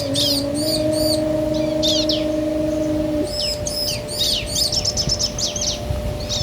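A pair of bar-winged prinias (ciblek), male and female, calling back and forth: quick series of high chirps and sharp downward-sweeping notes, with a fast trill about five seconds in.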